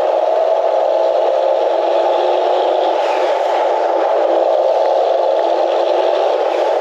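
ERF EC11 lorry's Cummins M11 diesel running steadily under way, heard as an even engine and road drone inside the cab.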